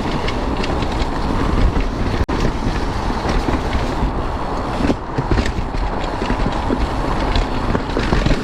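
Mountain bike riding down a dirt trail: steady tyre noise over the ground with frequent rattles and knocks from the bike, and wind on the microphone. A brief break in the sound about two seconds in.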